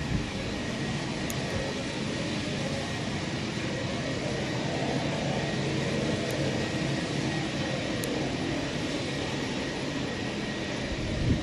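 Military jet aircraft engines being run up on the ground for maintenance at an air base: a steady, unbroken drone of rushing noise with a faint high whine held through it.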